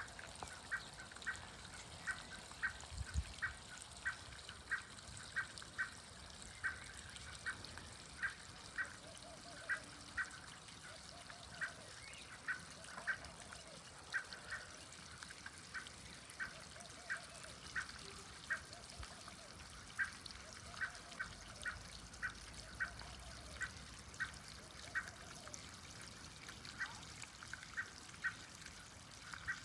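Outdoor nature ambience of animal calls. Short, sharp chirps repeat about one and a half times a second throughout. From about a third of the way in until near the end, a series of lower calls joins them, each rising and falling, about once a second. A faint steady hiss runs underneath.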